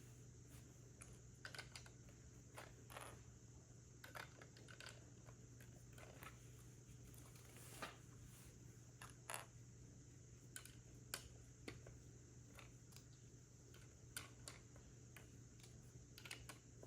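Faint, irregular clicks and taps of plastic Lego bricks being handled and pressed together, spaced unevenly from about half a second to a couple of seconds apart, over a steady low room hum.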